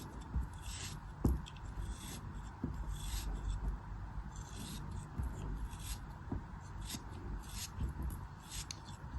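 Repeated short, crisp scraping strokes of a tool working through a crumbly material, about one or two a second, over a low rumble.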